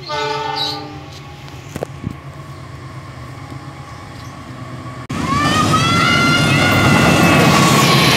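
Diesel locomotive's horn blast ending just after the start, then the approaching train's low engine hum. About five seconds in, the locomotive reaches the microphone and a loud rumble sets in suddenly, with several high whining tones above it.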